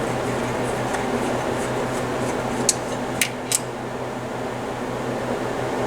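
Steady fan noise from a room heater with a low hum under it, and three short sharp clicks a little past halfway through.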